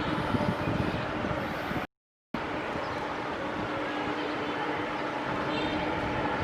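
Steady rumble of jet aircraft engines with a faint steady hum, cut off by a brief gap of silence about two seconds in.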